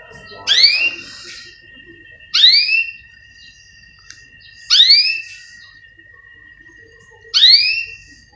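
A canary giving a short, loud, upswept call four times, about two and a half seconds apart, over a faint steady high tone.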